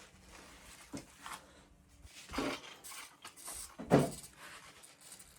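Tools and parts being handled while working on an engine: a few scattered small knocks and clatters, the loudest a sharp knock about four seconds in.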